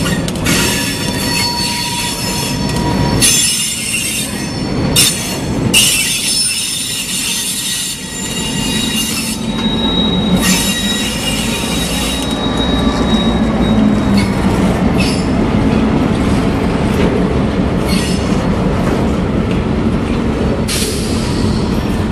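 CN diesel locomotives, including GMD1 1400, and a centerbeam flatcar rolling past. The steel wheels squeal in high, whistling tones that come and go through the first twelve seconds or so, over the continuous low rumble of the engines and wheels. The rumble grows louder in the second half as the last locomotive and the flatcar go by.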